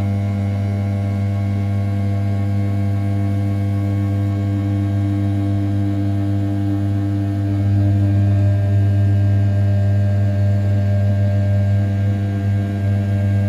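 500 W brushless spindle of an RZ420 desktop CNC mill cutting 7075 aluminium at 6000 rpm during perimeter roughing: a steady, even-pitched hum that gets a little louder about eight seconds in.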